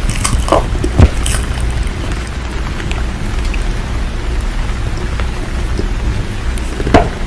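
Steady rain with a deep rumble underneath, broken by a few short crunches in the first second or so and once more near the end.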